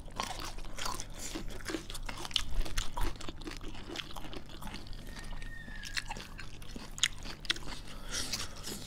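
Close-up chewing and crunching of food during a mukbang, a run of short crisp crunches and mouth sounds at an uneven pace. A brief thin tone sounds once a little past five seconds in.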